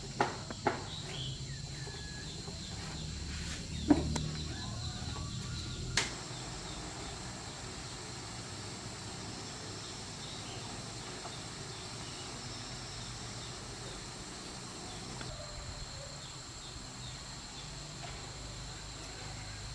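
Insects droning steadily at a high pitch, with a handful of sharp knocks in the first six seconds, the loudest about four seconds in.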